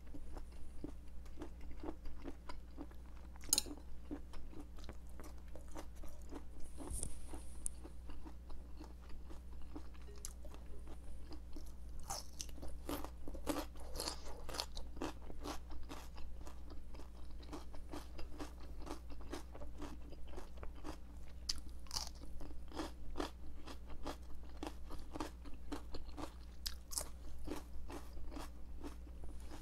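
Close-miked crunchy chewing of raw cabbage and red bell pepper: a continuous run of crisp, irregular crunches, with one sharper click about three and a half seconds in.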